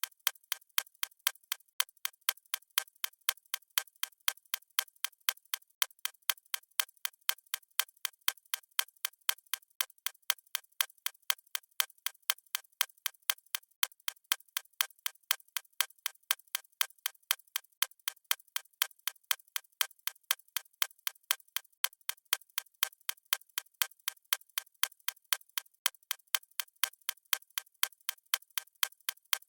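Clock ticking sound effect: crisp, evenly spaced ticks at a steady, unchanging rate.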